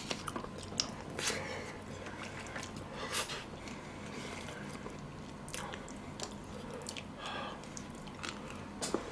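A person chewing and eating spoonfuls of pork spine stew with soft cooked greens: scattered short mouth smacks and clicks over a faint steady hum.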